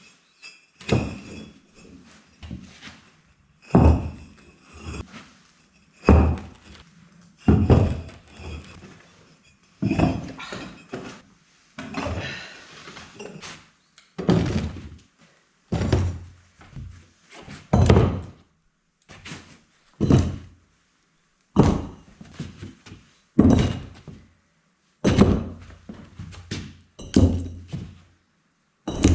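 Dull knocks, one every second or two, as bricks are tapped down into place while laying a brick floor.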